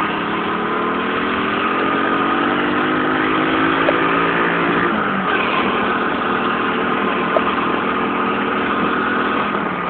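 Honda C50 step-through motorbike with a 90cc engine running, its pitch climbing slowly for a few seconds, dropping suddenly about five seconds in, then holding steady.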